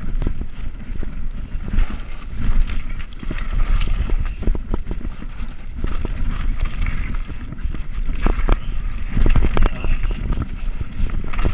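Wind rumbling on the microphone of a moving bicycle, with irregular clicks and rattles throughout.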